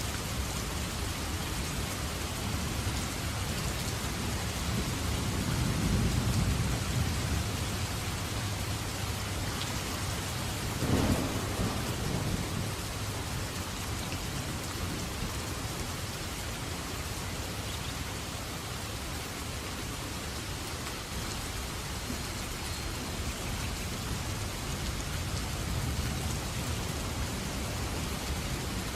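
Steady heavy rain with thunder: a low rolling rumble swells about five seconds in, and a sharper, closer thunderclap follows about eleven seconds in.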